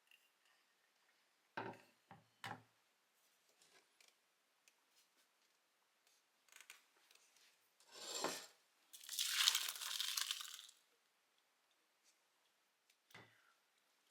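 Instant-food packaging being handled: a few light knocks, then a packet torn open over about two seconds, with one more knock near the end.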